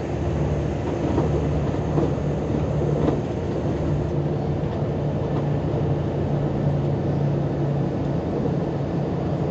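Volkswagen Volksbus 18-280 OT LE city bus's diesel engine running at a steady speed, an even drone that holds its pitch, with a few faint clicks in the first few seconds.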